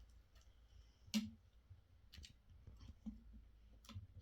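Several scattered light clicks and small knocks in a quiet room, the loudest about a second in.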